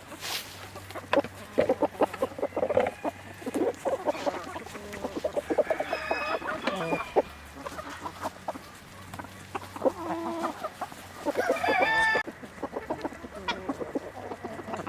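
Chickens clucking in a flock, many short calls one after another, with louder, higher squawking calls about six seconds in and again near twelve seconds.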